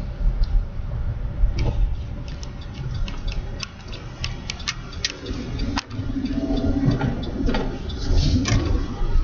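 Low steady rumble of a truck driving on snowy, slushy roads, heard from inside the cab, with many irregular sharp clicks and ticks scattered through it.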